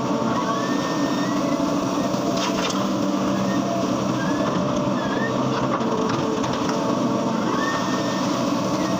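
Excavator's diesel engine running steadily, with a few brief high chirps over it.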